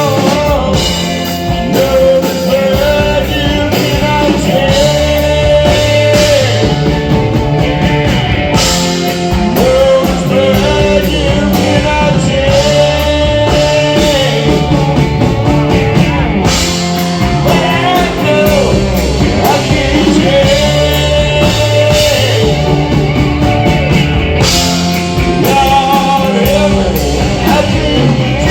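Live rock band playing loud and without a break: electric guitar with long held, bending notes over drums and bass, with singing.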